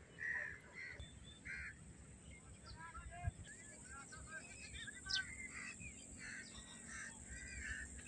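Several birds calling: many short chirps and calls scattered all through, over a faint low rumble.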